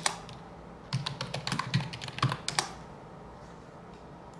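Typing on a computer keyboard: a single keystroke at the start, then a quick run of keystrokes lasting nearly two seconds.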